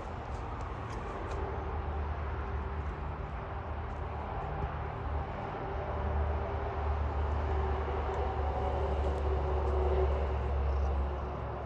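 A steady, low engine rumble with a faint hum in it, swelling over several seconds and easing off near the end, like a motor vehicle passing.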